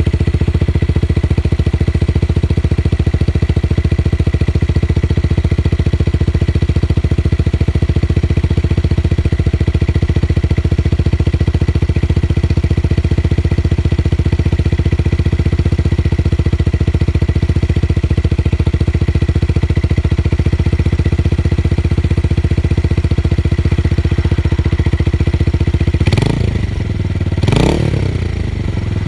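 Tuned motorcycle engine idling steadily with a deep bass exhaust note, then blipped twice near the end, the pitch rising and falling with each rev.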